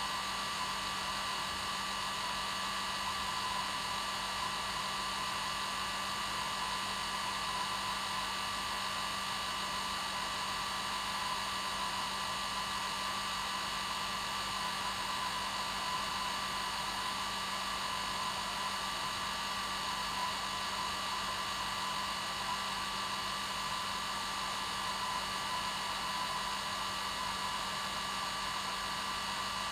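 Hair dryer running steadily on its normal setting: a continuous whooshing hiss of air with a steady motor hum underneath, unchanging throughout.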